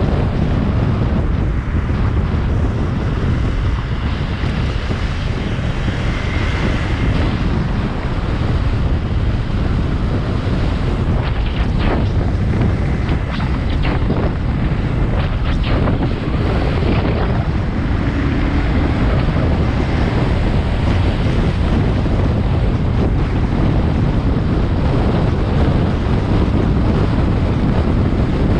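Wind buffeting the microphone of a moving motorcycle, a heavy steady low rumble with a few faint clicks around the middle.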